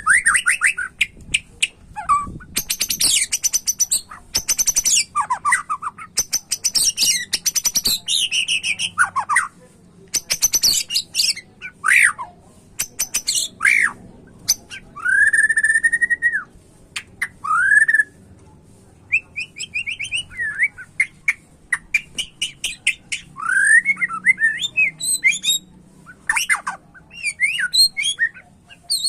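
White-rumped shama (murai batu) singing a varied song of gliding whistles, rapid trills and harsh chattering notes, delivered in loud phrases separated by short pauses.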